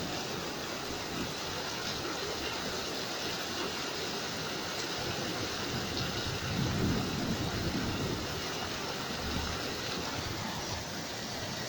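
Heavy rain falling steadily during a thunderstorm, with a low roll of thunder swelling about seven seconds in.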